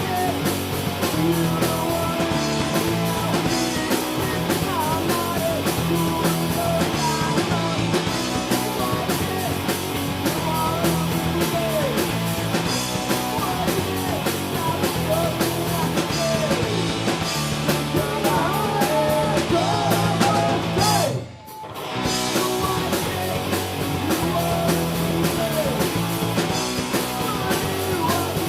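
Punk rock band playing live: electric guitar, bass and drum kit with singing. About 21 seconds in the band stops for a brief break, then comes back in.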